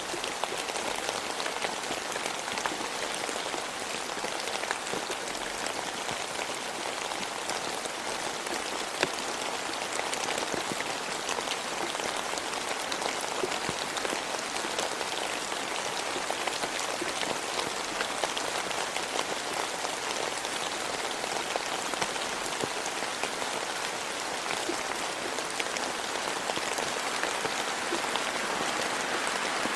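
Steady rain falling, an even hiss dotted with many small, sharp drop hits.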